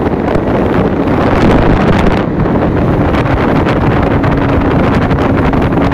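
Motorboat running at speed, with heavy wind buffeting the microphone; a faint steady hum comes in about halfway through.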